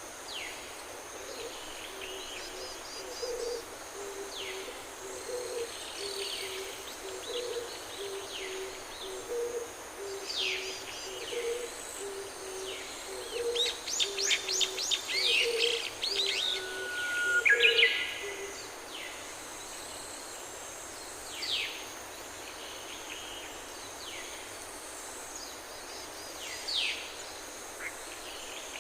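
Outdoor birdsong: several small birds chirping and trilling, with a busier burst of rapid notes in the middle. Under it, a low two-note cooing or hooting call repeats about every two seconds, stopping a little past halfway.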